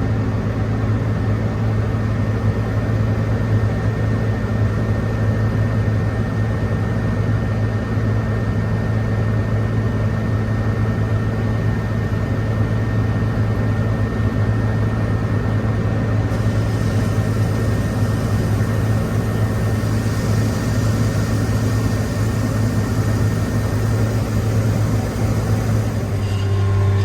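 Farm tractor's diesel engine running steadily, heard from inside the cab, with a thin steady whine over its low hum. A hiss joins about two-thirds of the way in, and the engine note changes just before the end.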